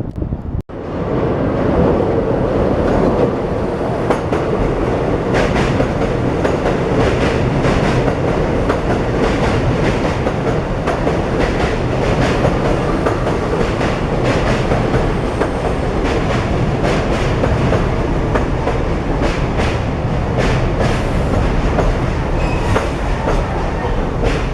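New York City subway train on the West End line running through, a steady loud rumble with wheels clicking rapidly over the rail joints.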